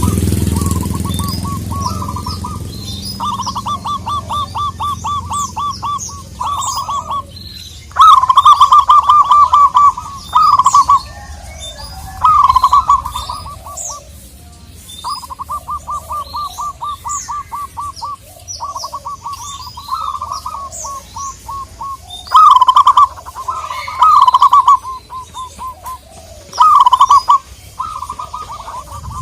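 Zebra dove (perkutut) cooing in long runs of rapid, evenly spaced staccato notes, some runs much louder than others, with small birds chirping high above it. A low rumble fades out in the first couple of seconds.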